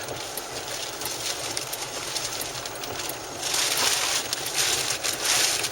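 Wind noise at the microphone from strong tornado-driven winds: a steady rushing that swells in two louder gusts about three and a half and five seconds in.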